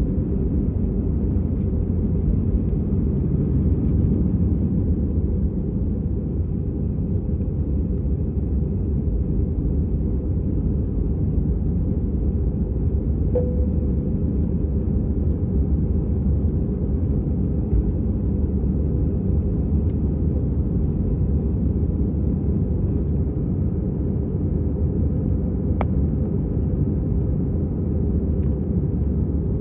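Airbus A320's jet engines running steadily, heard as a constant low rumble inside the passenger cabin.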